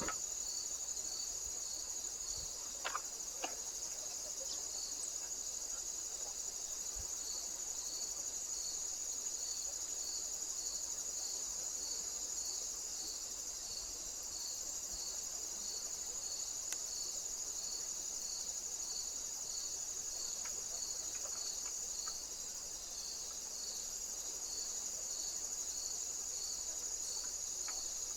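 Crickets chirping: a steady high-pitched trill, with a lower, evenly repeating chirp about one and a half times a second.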